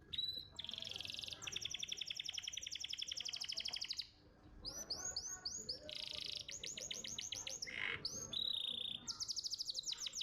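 Domestic canary singing in tours: long, fast trills of rapidly repeated notes, broken by a short run of rising swept whistles and a held note.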